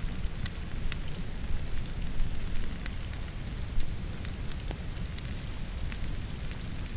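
Logs burning in a fireplace, crackling with frequent sharp pops at irregular moments, over the steady hiss of falling rain and a low rumble.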